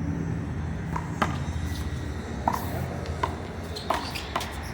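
A one-wall handball rally: sharp slaps as a rubber handball is struck by hand and hits the wall, about six of them spread over a few seconds. Under the slaps runs a steady low rumble.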